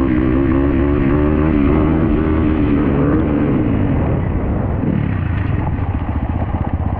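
Dirt bike engine running, its revs rising and falling for the first few seconds, then dropping to a lower, steady pulsing beat near the end.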